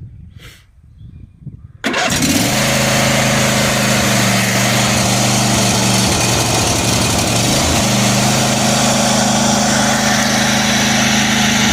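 John Deere D140 lawn tractor engine starting about two seconds in and then running steadily. It starts readily with the new fuel shutoff solenoid fitted, curing its cranks-but-no-start fault.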